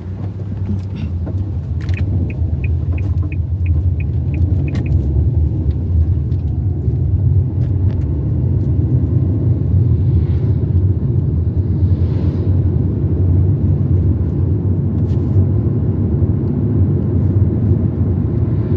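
Car driving along the road, a steady low rumble of engine and tyres. About two seconds in comes a short run of about eight even ticks, roughly three a second.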